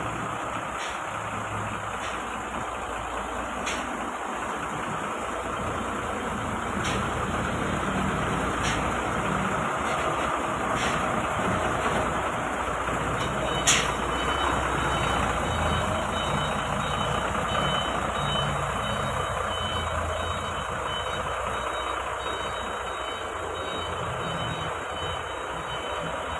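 A heavy truck's engine running steadily at low speed as it manoeuvres, with a few irregular sharp clicks or snaps. The loudest is a brief burst about halfway through. From about halfway on, a faint steady high tone sounds alongside.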